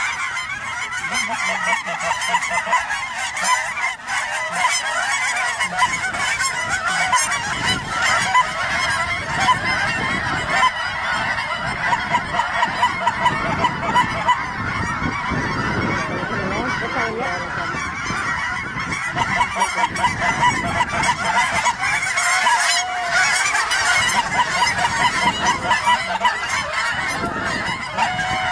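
A large flock of geese calling: many honks overlapping into a continuous din.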